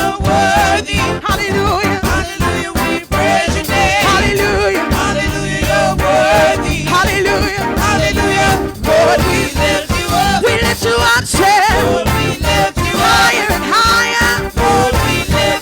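Church worship music: singing over a band with a steady beat.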